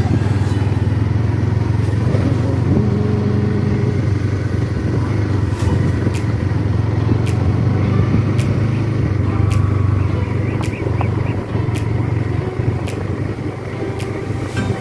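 Motorcycle engine running steadily, with sharp ticks about once a second from around six seconds in.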